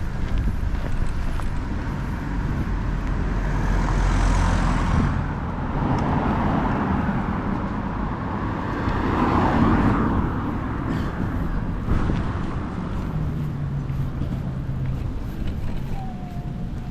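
Busy city road traffic: a steady low rumble with vehicles passing close by, loudest about four seconds in and again about nine to ten seconds in, and a low engine hum later on.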